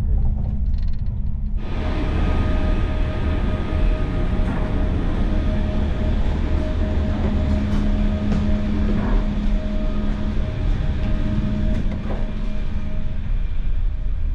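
Deutsche Bahn Twindexx IC2 double-deck intercity train running at speed, heard from on board: a steady rumble of wheels on track with a constant hum. About a second and a half in, the sound changes suddenly from a dull low rumble to a much fuller, brighter rush.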